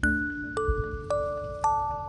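Background music: a gentle melody of struck, bell-like mallet notes, about two a second, each ringing on, starting suddenly.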